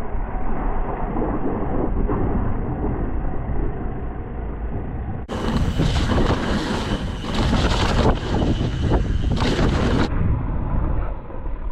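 Wind rushing over a chest-mounted action camera's microphone during a fast downhill mountain-bike descent, with tyre noise on the trail and frequent knocks and rattles from the bike over bumps. About five seconds in the sound turns brighter and hissier for several seconds, then dulls again.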